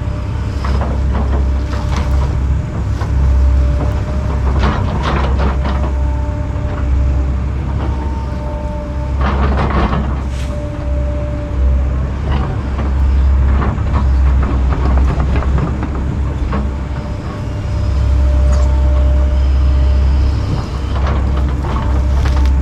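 Kobelco 210 excavator running steadily under load, its diesel engine humming with a faint hydraulic whine, as it rips brush and roots out of the ground. Sharp cracks and crunches of breaking wood come about 2, 5 and 10 seconds in.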